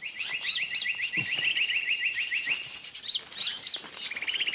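Several birds calling at once: a fast run of evenly repeated chirps, with higher squeaky notes and short rising whistles over it, easing a little near the end before another quick trill.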